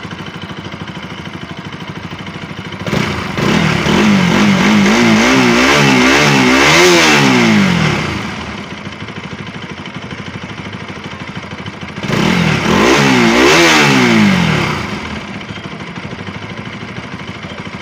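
Bajaj RS 200's single-cylinder engine idling, revved twice, about three seconds in and again about twelve seconds in, the revs rising and falling in quick pulses before dropping back to idle. It runs smooth, without the grinding noise at idle that one small loose bolt had been causing.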